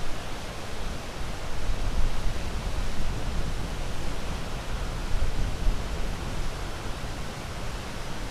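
Sea surf with a steady, dense rushing that swells and eases a little.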